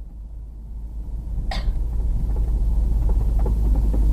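Low road and engine rumble inside a Ford Focus as it gains speed. There is one sharp click about a second and a half in, then a ticking from the right front wheel arch that repeats faster and faster: an abnormal noise whose cause is not yet known.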